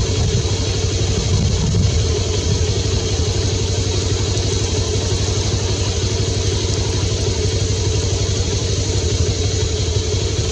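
Motorcycle engine idling steadily, with an even low firing rhythm.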